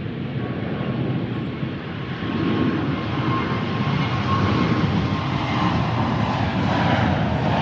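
Jet airliner on landing approach, its engines growing louder as it nears, with a steady whine that begins to fall in pitch near the end.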